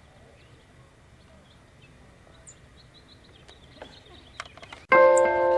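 Faint chirps of small songbirds, with a few soft clicks, over quiet outdoor ambience; near the end, background music with piano-like notes starts suddenly and much louder.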